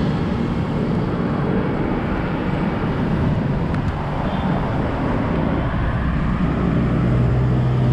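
Steady road traffic noise, with vehicle engines running close by; one engine's hum grows louder near the end.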